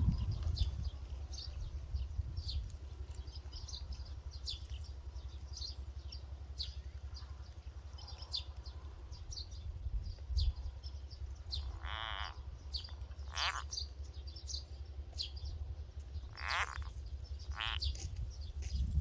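Outdoor animal calls: short high chirps repeat throughout. In the second half there are four louder calls. The first is a buzzy pulsed call about half a second long, and the others are quick downward sweeps, with a low rumble of wind underneath.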